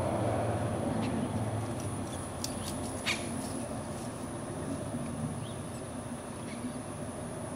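A few short, faint purple martin chirps, the clearest about three seconds in, over a steady hiss and low hum from the nest-box camera's microphone.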